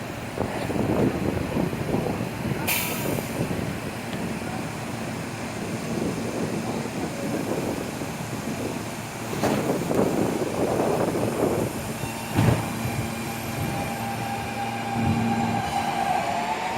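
R160 subway train pulling out of the station, its wheels rumbling and clattering over the rails, with a few sharp clanks. A motor whine starts to rise near the end as it accelerates.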